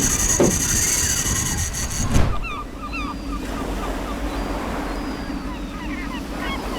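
Wind blowing hard over the microphone with waves washing on the shore, and a flock of birds calling in short, chattering notes from about two seconds in. The first two seconds hold a louder hissing rush.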